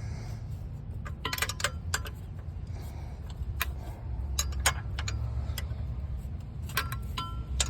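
Metal hand tools clicking and clinking on the exhaust bolts, in irregular sharp clicks with a quick flurry about a second and a half in and more near the end, over a steady low hum.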